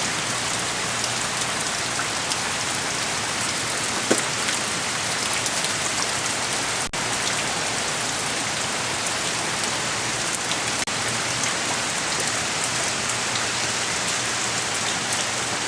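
Heavy hurricane rain pouring down in a steady, even hiss.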